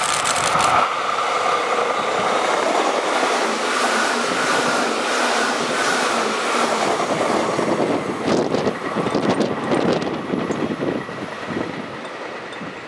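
Izu Kyuko 2100 series electric train passing through at speed: steady running noise with a hum, and wheels clacking over rail joints. The clacking is heaviest about eight to eleven seconds in, then the sound fades as the train moves away.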